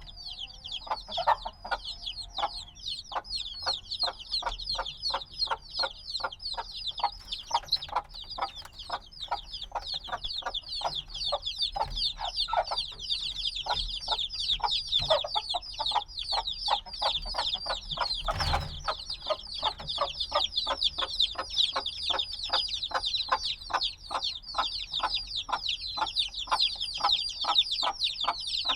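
A brood of chicks a few days old peeping continuously, many high, short, falling peeps overlapping several times a second. One brief knock about two-thirds of the way through. The recordist puts their noisiness down to their still needing the mother hen's warmth.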